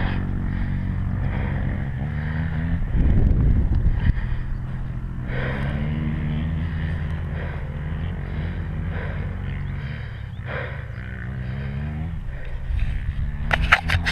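Dirt bike engine running at low, fairly steady revs, with a brief louder surge about three seconds in.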